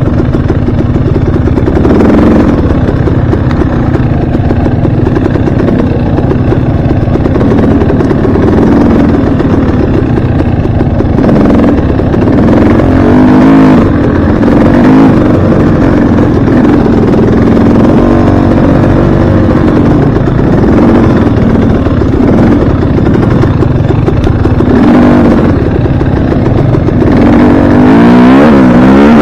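Dirt bike engine running hard during a ride, its pitch rising and falling repeatedly as the throttle opens and closes, with a sharp rev climbing near the end.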